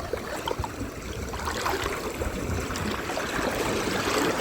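River water running and trickling, growing slowly louder, with a few faint clicks.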